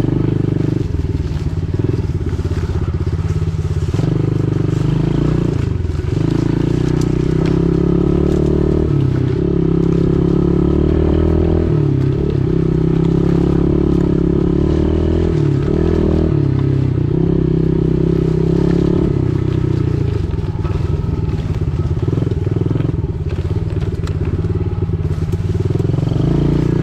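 Pit bike engine running under load, its pitch rising and falling as the throttle opens and closes, with short dips a few times that fit gear changes or easing off.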